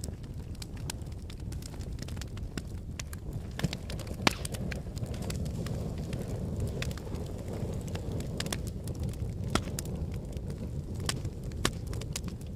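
Wood fire burning in a fireplace: a steady low rumble of flames with frequent sharp crackles and pops of burning logs, the loudest pops a little past four seconds and again about halfway through.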